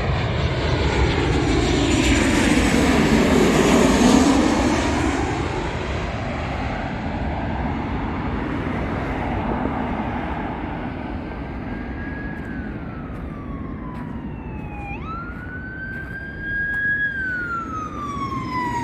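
Jet airliner passing low overhead, its engine noise swelling to a peak about four seconds in, its pitch sliding down as it goes by, then fading. From about eleven seconds in, an emergency vehicle siren wails: slow falling tones, each snapping quickly back up.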